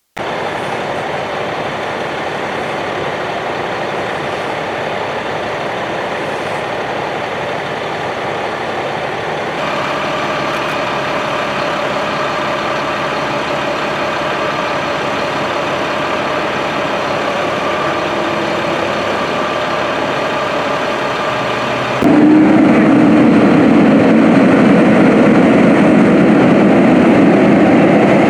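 Vehicle engines running steadily, with a few held tones over a rumbling hum. The sound shifts suddenly about ten seconds in and again, louder and deeper, a little past twenty seconds in.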